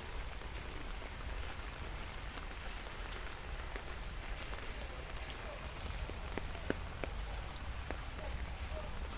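Light rain falling on street surfaces, a steady hiss with scattered individual drops ticking sharply, over a low steady rumble.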